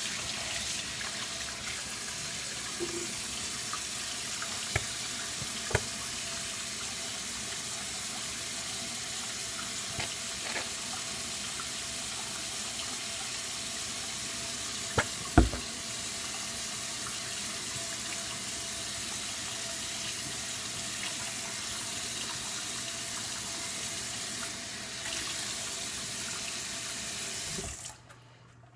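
Tap water running steadily, rinsing shampoo out of hair between washes, with a few sharp knocks, the loudest about halfway. The water shuts off abruptly near the end.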